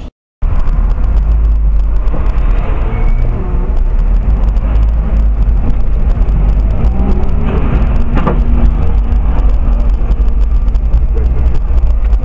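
Loud, steady low rumble of a car's road and engine noise picked up by a dashcam microphone inside the vehicle. It starts abruptly after a moment of silence.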